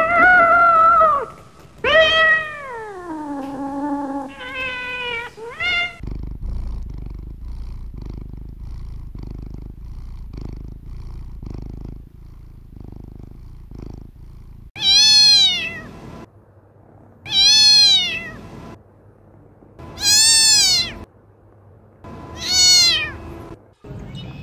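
Kitten meowing: a few drawn-out meows in the first five seconds, the second one falling in pitch, then a quieter stretch, then four high-pitched meows of about a second each, spaced about two and a half seconds apart.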